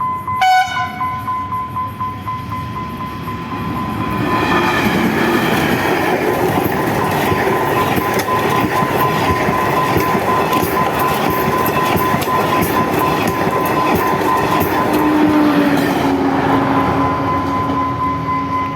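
Train hauled by a diesel locomotive sounding its horn: a short blast about half a second in and a longer one about four seconds in. Loud wheel and rail clatter follows as the train passes.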